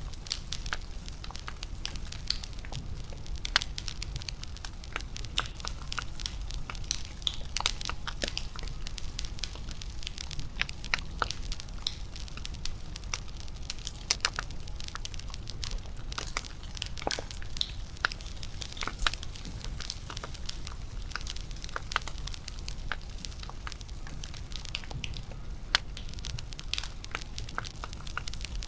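Bonfire crackling: irregular sharp pops and snaps from the burning wood over a steady low rumble of the flames.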